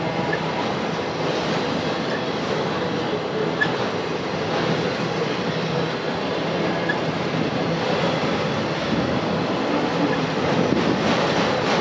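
Enclosed autorack freight cars rolling past, a steady rumble of steel wheels on the rails.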